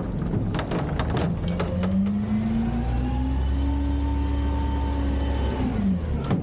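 An Autocar/Heil Freedom front-loader garbage truck: a few metallic clanks, then the engine revs up over about a second and a half, holds high for about two seconds, and drops back.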